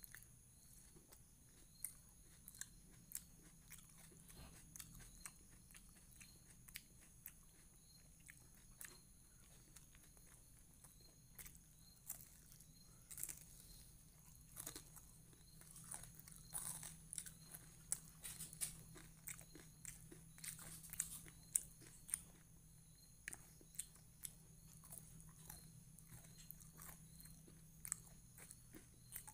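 Close-miked eating sounds of a person chewing fried chicken lollipop and rice by hand: wet chewing with many short sharp mouth clicks, busiest in the middle stretch, over a faint steady hum.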